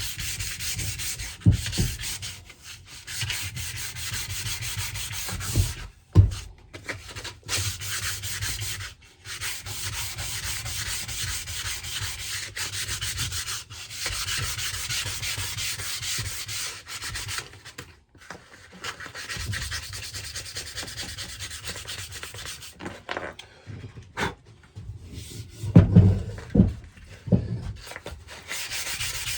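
Steady rasping, rubbing noise, like abrasive scraping on wood, broken by short pauses. A few dull thumps come about six seconds in and a cluster near the end.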